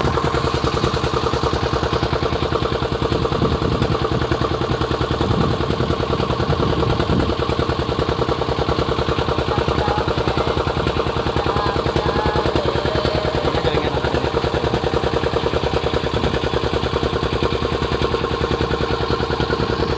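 An engine running steadily close by, with a fast, even pulsing beat and a constant hum that hold unchanged throughout.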